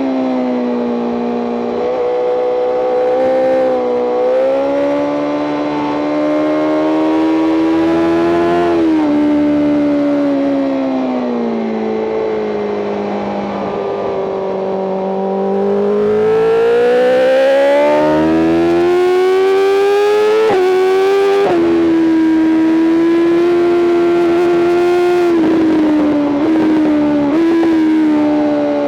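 BMW M 1000 RR's inline-four engine running hard at high revs, its pitch sinking slowly, then climbing for several seconds under acceleration, with a few sudden pitch jumps at gear changes in the last third.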